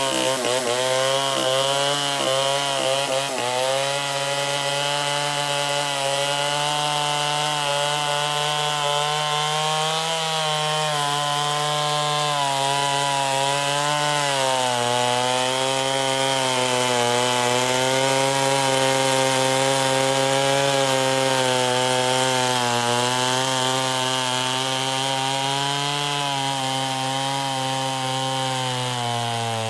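Stihl Contra Lightning two-stroke chainsaw, bored out to 137 cc, running steadily. Its pitch wanders slowly up and down and dips briefly near the end.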